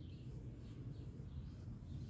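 Outdoor background: faint bird chirps over a steady low rumble.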